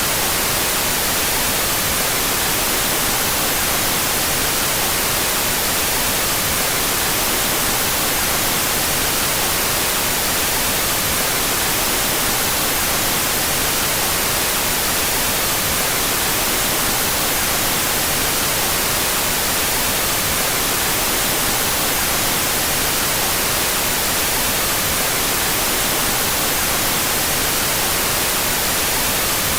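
Steady, unbroken white noise, an even hiss strongest in the highs, with the stereo channels out of phase.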